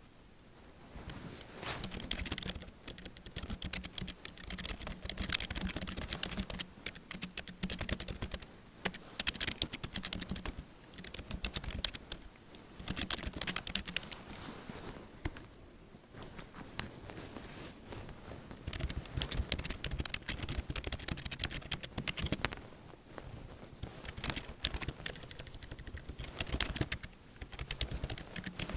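Computer keyboard typing: rapid key clicks in bursts, with short pauses between runs.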